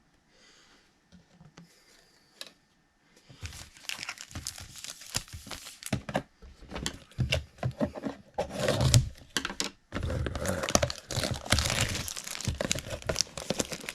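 Trading-card packaging being torn open and crinkled: wrapper and box material ripping and rustling in a dense run of crackles. It starts about three seconds in, after a near-quiet opening, and pauses briefly before picking up again.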